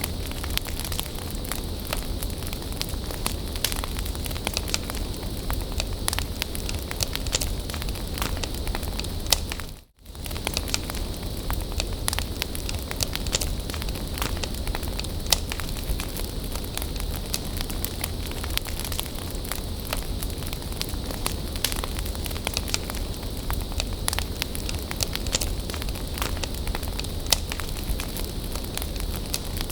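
Bonfire burning with a steady hiss and many sharp crackles and pops. The sound briefly drops out and fades back in about ten seconds in.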